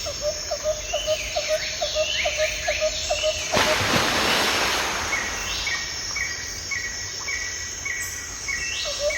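Birds and insects calling: a low call repeating about four times a second with higher chirps over it, then a rushing noise from about three and a half seconds in, and a high chirp repeating about twice a second near the end.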